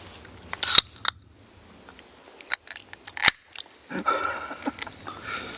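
A person eating jjajang noodles: chewing and mouth noises, with several sharp clicks in the first few seconds and a longer, rougher eating sound from about four seconds in.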